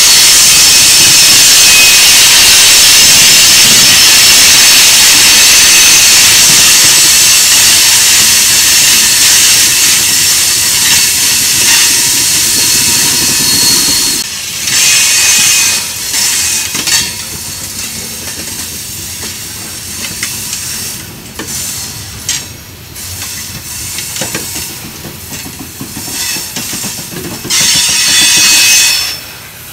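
Loaded rock hopper cars of a freight train rolling past, their wheels on the rail making a loud, steady high hiss with thin squeals. About halfway through the sound drops and turns patchy, and the hiss swells back briefly near the end.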